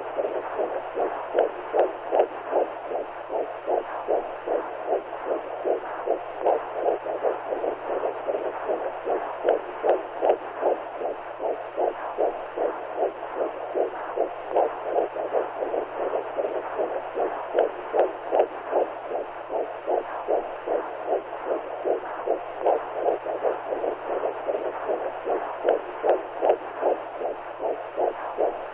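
Womb sound for soothing newborns: a heartbeat-like whooshing pulse repeating at an even rhythm over a faint steady low hum.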